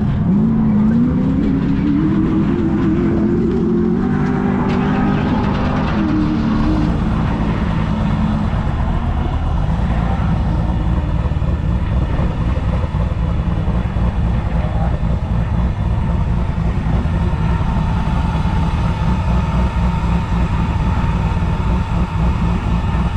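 Vehicle engine revving, its pitch climbing over the first few seconds, holding, then dropping about six seconds in, followed by a heavy, steady low rumble of engine noise.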